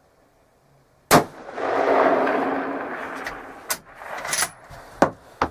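A 6.5 Creedmoor rifle on a Remington 700 action fires one shot about a second in. A rolling rumble swells and fades over the next couple of seconds, followed by several short sharp clicks and knocks.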